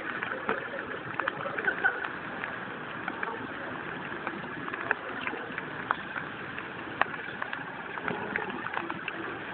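Torrential rain falling: a steady hiss of rain with many sharp drips and splashes scattered through it.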